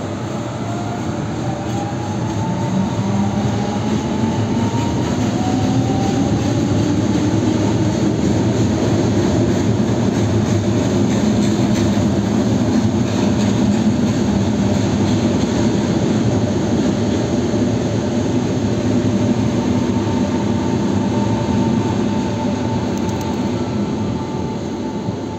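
Electric commuter train running along the station tracks: a steady rumble of wheels on rails, with the traction motors' whine rising in pitch over the first few seconds as the train gathers speed. Later a steadier whine, and the sound eases off near the end.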